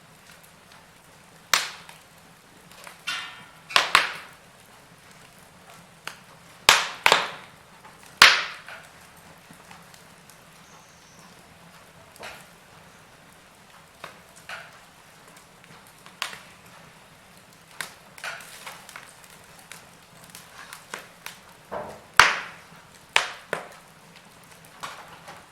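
Wood fire crackling: sharp, irregular pops and snaps, some in quick pairs, coming every second or few over a faint steady hiss.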